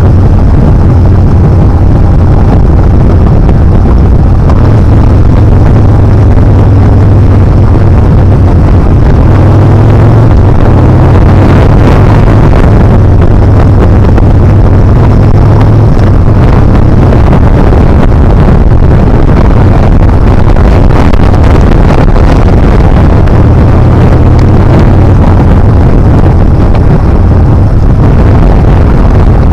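Yamaha Bolt R-spec motorcycle's air-cooled V-twin running at road speed, mixed with loud wind rumble on the camera microphone.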